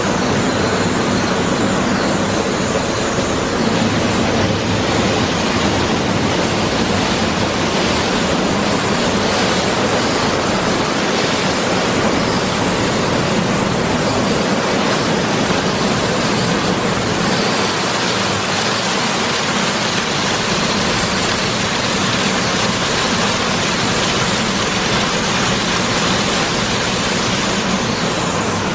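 Oasis Baywash i5 automatic car wash working over the car: a steady, loud rush of water spray and wash machinery.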